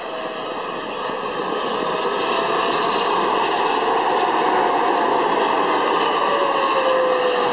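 Emirates Boeing 777-300ER's GE90 jet engines on its landing, growing steadily louder, with a steady rush and a few whining tones that slide slowly down in pitch.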